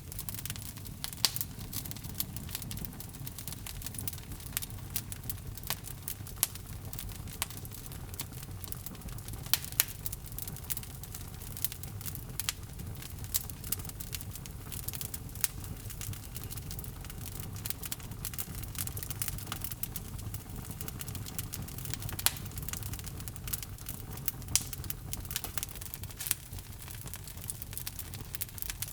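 Log fire in a fireplace crackling, with frequent sharp pops and snaps at irregular intervals over a steady low rumble of the flames.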